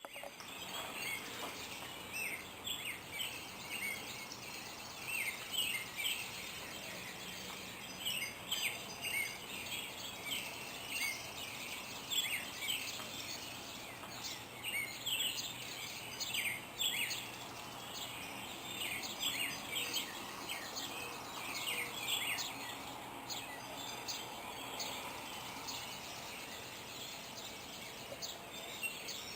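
Several songbirds singing in a morning chorus: many short chirps and whistles, one after another, over a steady background hiss.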